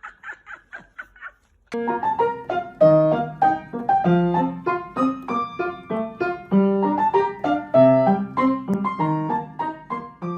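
Background piano music, a lively run of quick notes starting a couple of seconds in. Before it comes a short run of quick repeated sounds, about five a second, that stops after about a second.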